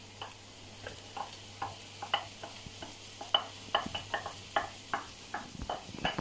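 Chopped onion, garlic and peppers sizzling faintly in an electric paella pan, with frequent short, uneven clicks and taps of a wooden spoon against the plate and pan as the peppers are pushed in and stirred.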